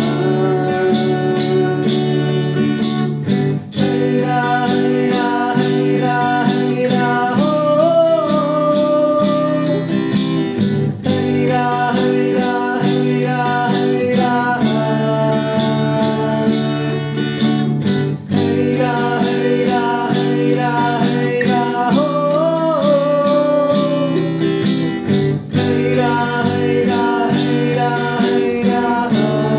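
Acoustic guitar strummed in a steady rhythm over sustained chords, an instrumental passage of a song, with a short melody line bending upward in pitch about eight seconds in and again near twenty-two seconds.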